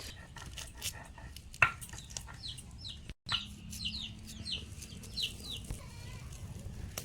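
Young poultry peeping over and over in short, high, falling chirps, with scattered light clicks and one sharp knock about one and a half seconds in. The sound drops out for a moment a little after three seconds.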